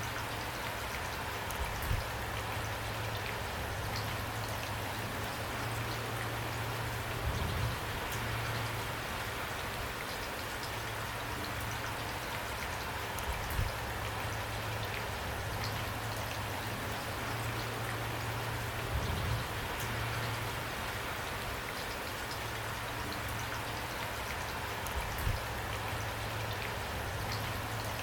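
Steady rain falling, with a few louder low thuds at intervals of five or six seconds.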